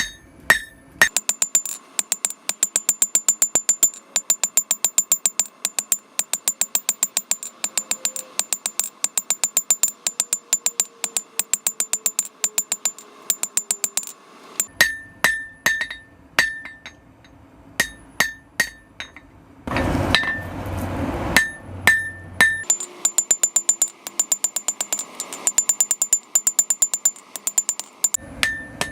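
Blacksmith's hand hammer striking a hot carbon-steel bar on an anvil, drawing out the point of a cold chisel. It comes in long quick runs of ringing blows, several a second, broken by pauses and a few slower blows. About two-thirds of the way through there is a short rushing noise.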